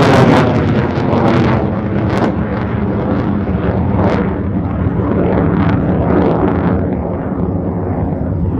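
F-16 fighter jet engine roar with a crackling, ragged edge as the jet passes close. The high end thins out near the end as it moves away.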